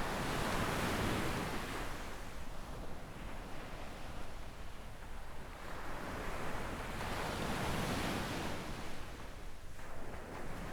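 Small sea waves breaking and washing up a sandy shore, surging twice about six seconds apart.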